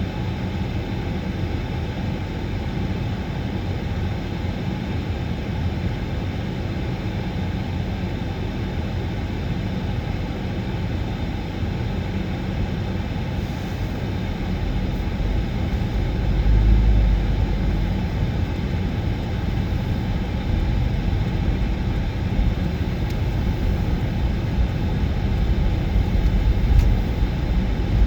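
Steady low rumble of a moving vehicle, swelling briefly about halfway through and again near the end.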